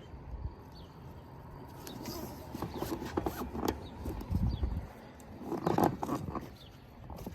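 Irregular knocks, clatter and rattling of a raft being handled onto an aluminum-frame kayak cart, building up about two seconds in, with a dull thump around the middle and a loud clatter near the end.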